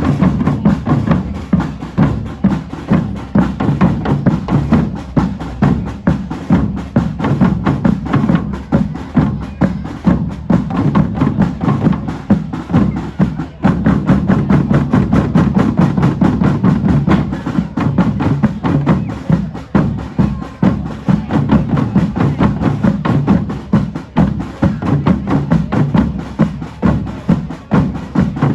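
Drum band playing a loud, fast, steady rhythm on several drums together, the low drums carrying a regular beat.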